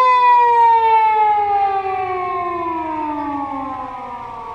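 Japanese police siren sounding one long wail, gliding slowly down in pitch and fading over about four seconds.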